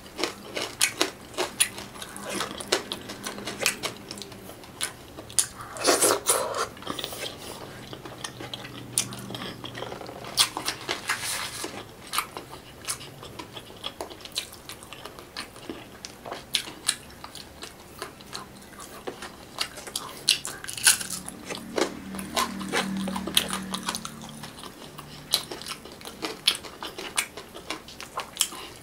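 Close-miked eating sounds: chewing and crunching of fried tilapia eaten by hand, with many sharp clicks and smacks.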